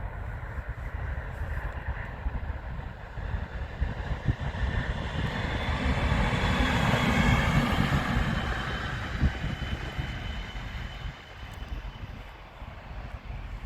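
A train passing by on the line, its noise swelling to a peak about seven seconds in and then fading away over a steady low rumble.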